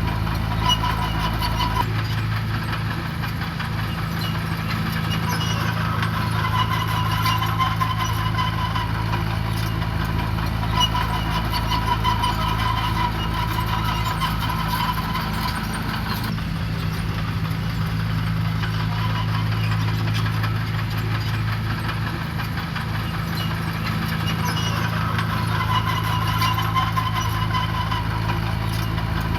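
Diesel engine of heavy construction equipment running steadily, with a higher whine that rises and fades every few seconds.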